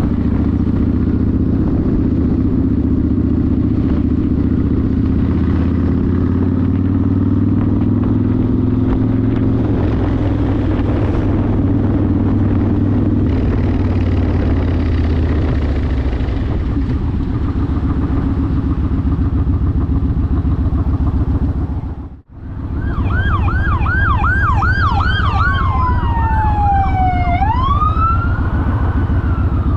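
Yamaha Warrior 1700's V-twin with a custom exhaust running under way, climbing in pitch as it accelerates a few seconds in. The sound cuts out for a moment about two-thirds through, then an emergency vehicle siren sounds over the engine: a fast yelp, then a slower wail falling and rising.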